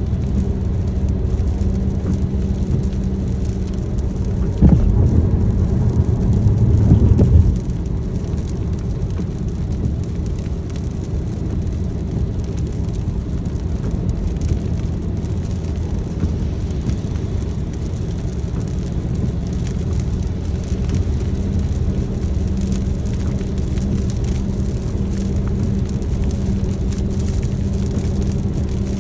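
Car driving in the rain, heard from inside the cabin: a steady low drone of engine and tyres under a light hiss of rain. About five seconds in, a louder low rumble starts suddenly and cuts off about three seconds later.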